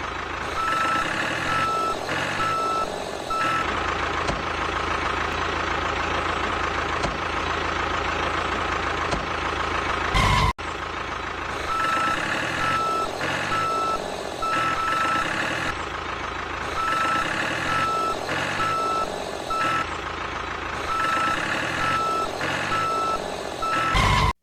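A vehicle reversing alarm beeping over a running engine, in runs of evenly spaced beeps with short pauses. The sound breaks off abruptly about ten seconds in, then resumes.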